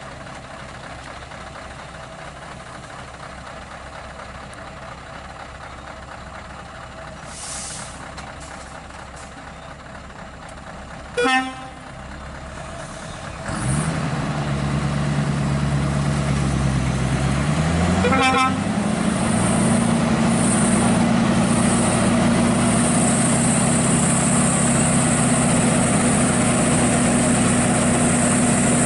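A heavy truck's diesel engine, quiet at first, comes in loud and steady just past the halfway point, then its pitch rises and holds at higher revs. A short horn toot sounds shortly before the engine comes in.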